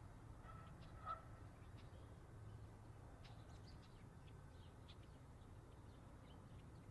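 Faint countryside ambience: small birds chirping sporadically over a steady low rumble, with one short pitched animal call about a second in.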